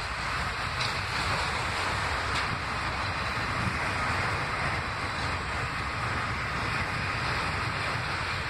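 A freight train of autorack cars rolling past on the rails: a steady rumble and hiss of wheels and cars.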